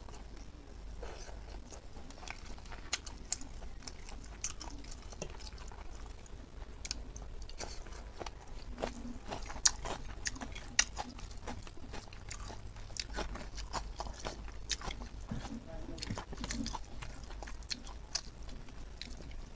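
Close-up eating sounds of braised pork legs and ribs eaten by hand: irregular wet chewing, lip-smacking and clicks as fingers work the sticky meat and rice, with two louder smacks near the middle.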